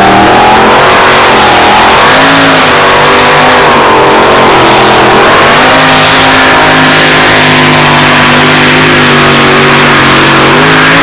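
Two-wheel-drive pulling truck's engine running hard at high revs during a pull. Its pitch wavers up and down for the first few seconds, then holds steadier and a little higher.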